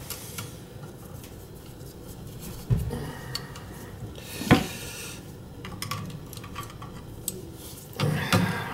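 Metal tools and parts clinking and knocking as a gas boiler's control valve is worked on by hand, with a sharp knock about halfway through and a cluster of clinks near the end.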